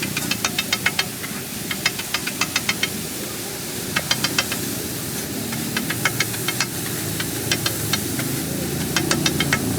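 Food sizzling on a hot griddle, with short quick runs of metallic clicks, about five or six a second, from a metal spatula tapping and scraping on the griddle.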